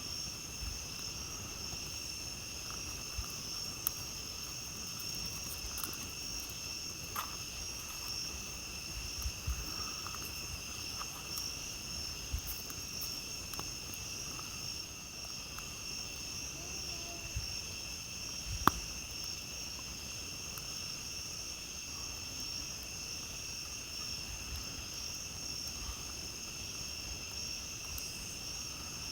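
A steady chorus of night insects, several continuous high-pitched trills at once. Over it come scattered crackles and pops from a wood campfire, with one sharp pop about two-thirds of the way through.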